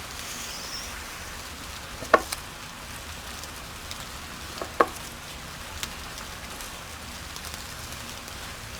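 Chicken pieces sizzling steadily in a hot pan of oil and caramelised sauce, with a few sharp clicks, about two seconds in and twice more later.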